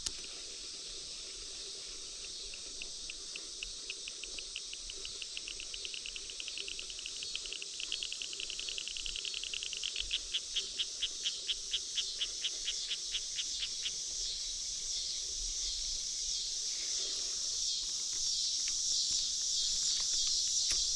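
Insects chirping and trilling in a steady high chorus. A separate run of regular chirps comes in about two seconds in, grows louder near the middle at about four a second, then stops.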